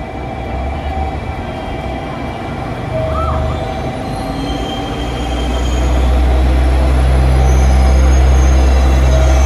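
A train running at a station platform, its deep rumble growing louder about five seconds in and then holding steady.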